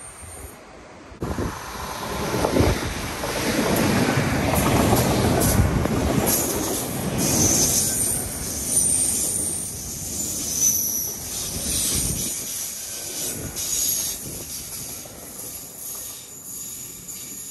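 Passenger train passing on the line: a rumble of wheels on rail that builds, holds and then fades, with high-pitched wheel squeal through the loudest part.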